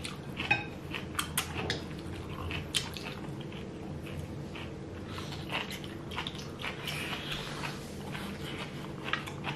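Close-up chewing and biting of dumplings: wet mouth sounds with many small, scattered clicks and smacks.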